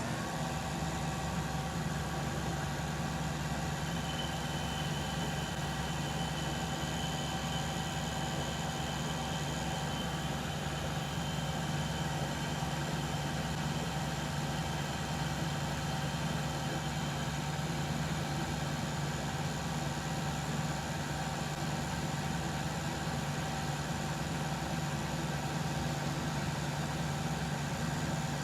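Metal lathe running steadily while taking a spring cut, a light finishing pass at the same setting, on a thin turned pin. A faint high steady tone comes in about four seconds in and fades out after about twelve seconds.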